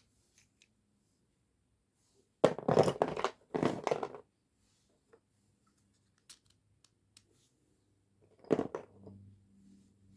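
Dry cubical slate pencils being scraped and rubbed by hand: two rough, gritty scraping strokes a few seconds in, a few light clicks, then a shorter scrape near the end.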